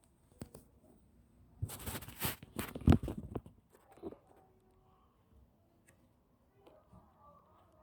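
Clicks, scrapes and knocks of laptop parts and tools being handled: a few scattered clicks, then a busy stretch of scraping and knocking from about one and a half to three and a half seconds in, with one sharp knock near three seconds the loudest, and a last knock about a second later.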